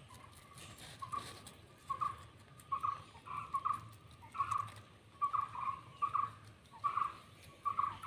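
A bird calling in short notes at one steady pitch, often in pairs, repeating about once a second from about a second in.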